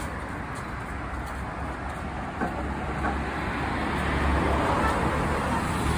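Road traffic noise: a steady rumble that swells about four seconds in, as a vehicle draws near.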